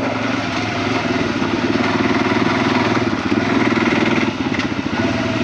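Off-road vehicle engine running at low speed with a rapid, even pulse, being ridden slowly over loose gravel. It picks up a little about two seconds in and eases off a little after four seconds.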